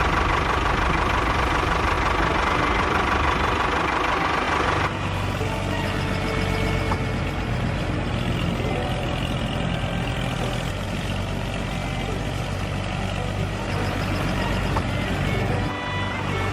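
A loud, even rushing noise for about the first five seconds that cuts off abruptly, then the mini tractor's engine running steadily.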